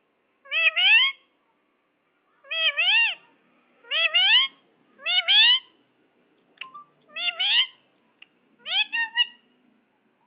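Ring-necked parakeet giving a series of about six short calls, each rising in pitch, with pauses of about a second between them.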